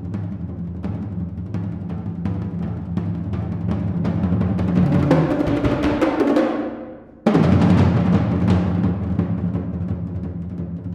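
Percussion trio playing contemporary percussion music: dense, rapid strokes on pitched low drums, swelling louder toward the middle. The sound drops away about two-thirds of the way through, then comes back in suddenly and loudly.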